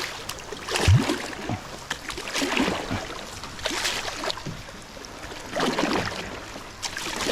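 Creek water splashing and rippling around a kayak, with irregular splashes about once a second over a steady wash of moving water.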